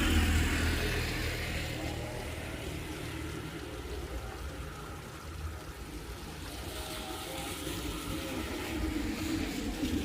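Steady rain noise with a low rumble that is loudest at the start, fades over the first few seconds, and builds again near the end.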